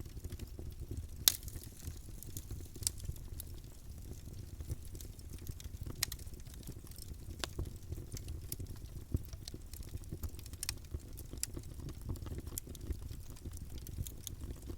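Campfire burning: a steady low rumble of flames with irregular sharp crackles and pops of burning wood, one loud pop about a second in.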